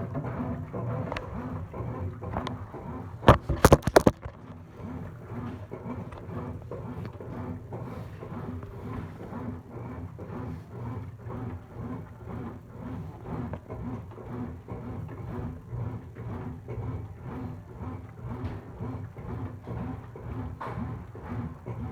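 Brastemp washing machine running, a steady motor hum that swells and fades in an even rhythm as it agitates the load of rugs and floor cloths. A brief burst of loud clatter about three seconds in.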